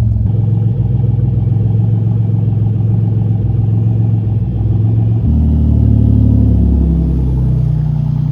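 Supercharged 3.8-litre V6 in a Pontiac Fiero running steadily. About five seconds in, its sound abruptly deepens and grows louder, then its pitch falls in steps.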